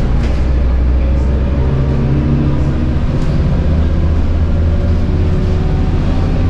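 Scania K230UB bus's 9.3-litre DC9 five-cylinder diesel running steadily under load through its ZF Ecomat 6HP504C six-speed automatic, heard from inside the bus, with a deep rumble and a few faint light clicks.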